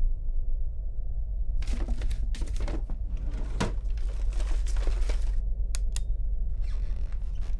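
Irregular bursts of rustling and scuffling with several sharp knocks, over a low steady rumble. They start about two seconds in, pause briefly after about five seconds, and return near the end.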